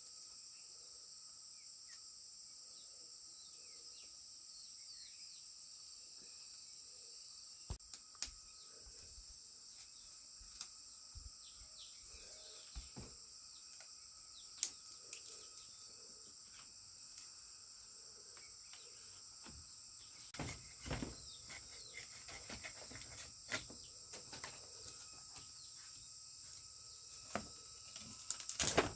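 Steady high-pitched chorus of crickets, with small bird chirps and scattered knocks and clicks, clustered in the second half.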